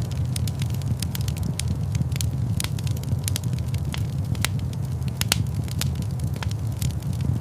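Fire crackling in a stone fireplace: irregular sharp pops and snaps over a steady low rumble of flame.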